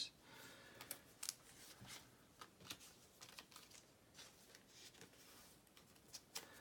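Faint, irregular light clicks and rustles of baseball cards being flipped and handled.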